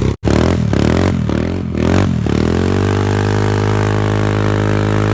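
Thumpstar 110 pit bike's single-cylinder four-stroke engine revving, its pitch rising and falling in several quick blips, then held at steady high revs for a few seconds.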